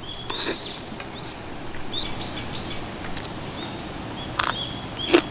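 Small songbirds chirping in short, high, repeated notes, many with a quick upward hook, and a brief run of arched notes about two seconds in. A few short clicks sound among them, the loudest about four and a half seconds in.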